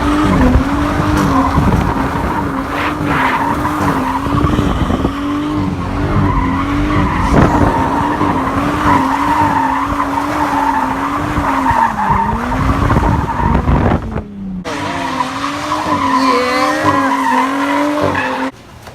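Straight-piped Nissan Z held high in the revs, the engine note wavering up and down, while its tires squeal as the car slides. The sound breaks off briefly about 14 seconds in and stops suddenly near the end.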